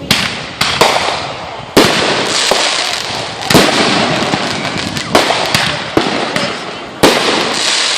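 Fireworks going off in a string of about ten sharp bangs over eight seconds, each trailing off into a fading rumble. The loudest come about two seconds in, midway and near the end.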